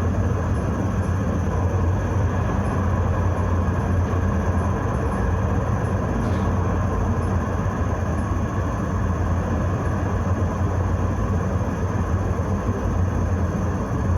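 Steady low rumble and hum of a Vienna tram, heard from inside the car, with no marked change in level.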